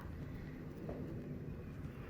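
Faint, steady low rumble of background noise, with no distinct event.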